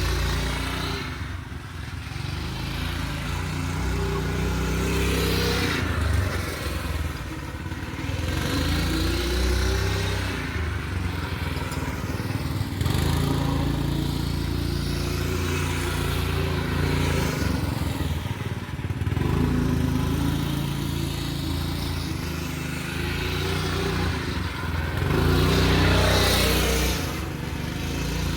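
Single-cylinder Honda GX200-clone engine of a home-built two-wheel-drive motorcycle running with its governor removed. Its pitch rises and falls several times as the throttle is opened and closed.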